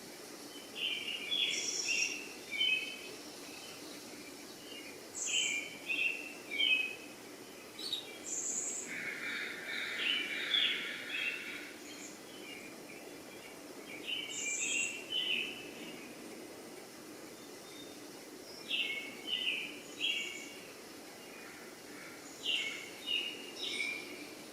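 A songbird singing the same short chirping phrase over and over, about every four to five seconds, over a steady background hiss.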